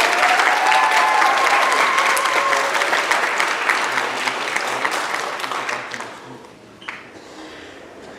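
Audience applauding, with a few cheers in the first seconds; the clapping is loud for about five seconds, then dies away.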